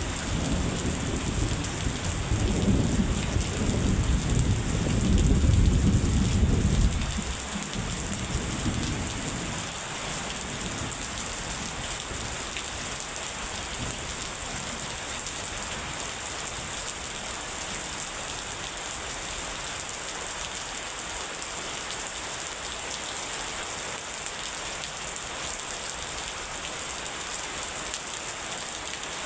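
Heavy rain falling steadily, with a rolling thunder rumble over it that swells and then dies away about seven to ten seconds in, leaving only the rain.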